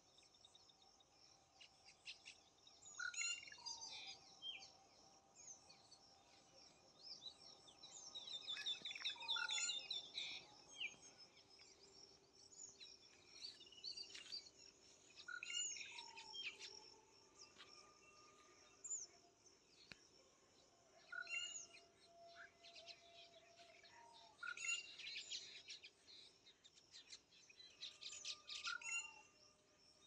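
Small birds calling and singing in trees, a mix of quick chirps and whistled notes from several birds, with a short downward-sliding phrase that comes back every few seconds.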